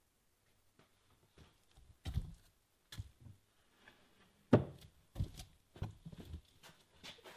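A string of irregular knocks and thumps, the loudest about halfway through.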